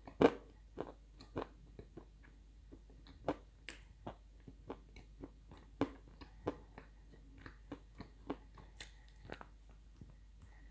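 Hard chunks of edible clay being bitten and chewed close to the microphone: irregular crisp crunches, loudest in the first second, then softer crunches scattered through the rest.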